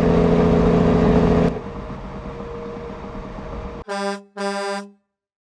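A horn sounds in a loud steady blast that cuts off about a second and a half in, leaving a fainter rumble, then gives two short toots near the end.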